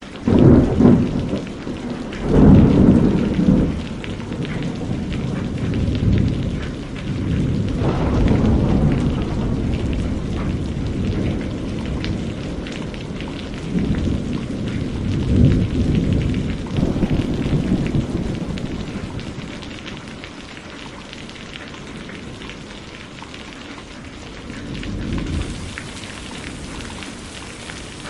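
Heavy rain falling steadily, with deep low rumbles that swell and fade every few seconds and ease off in the second half.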